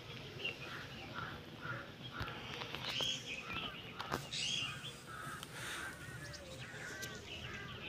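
Birds calling outdoors: many short calls, one after another.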